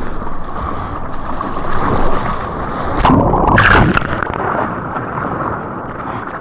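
Ocean water splashing and rushing around a paddling surfer, with wind on the microphone. About three seconds in, a louder rushing surge of whitewater lasts about a second.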